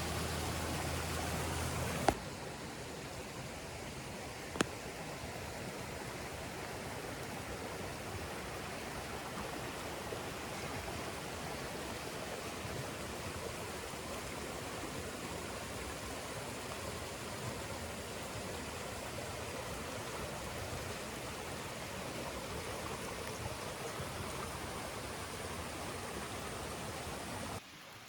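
Steady rushing of falling water from a rainforest waterfall. A sharp click comes about two seconds in, where the sound steps down slightly, and another click follows a couple of seconds later.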